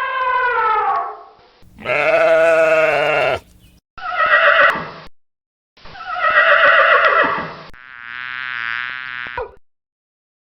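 A series of farm animal calls, five in a row, each one to two seconds long with short gaps between; the last call, near the end, has a different, wavering quality.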